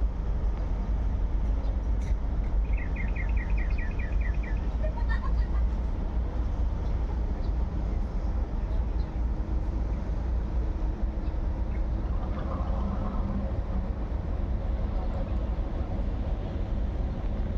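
Steady low outdoor rumble, with a short run of rapid high chirps about three seconds in.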